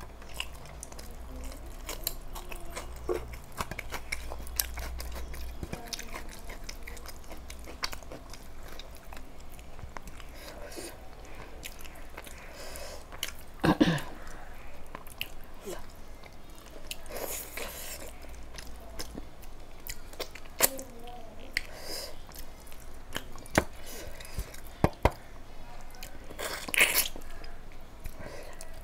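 Close-miked chewing and mouth sounds of a person eating rice and chicken curry by hand, with small wet clicks throughout and a few louder smacks.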